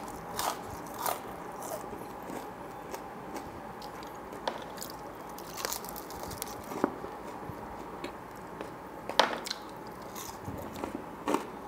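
Close-miked biting and chewing of a crispy fried onion ring: scattered crunches and wet mouth clicks, loudest about nine seconds in and again near the end.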